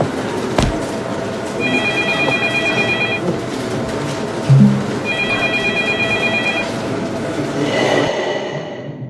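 An electronic telephone-style ringing tone, a trilled high tone sounding twice in bursts of about a second and a half, over background music. There is a short thump about half a second in, and the sound fades out near the end.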